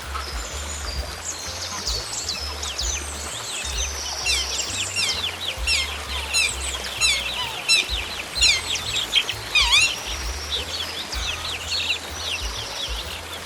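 Small songbirds chirping and singing, a rapid chatter of quick descending chirps that grows busiest in the middle, over a low rumble.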